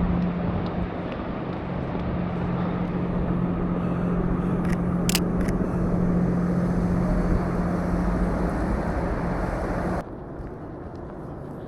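City street traffic noise with a steady low engine hum from a nearby vehicle and a few sharp clicks about five seconds in. About ten seconds in the sound drops abruptly to a quieter traffic background.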